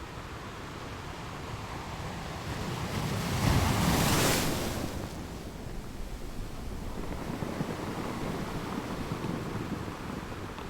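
Ocean surf: a wave swells, breaks loudest about four seconds in and washes back, followed by a smaller surge near the end.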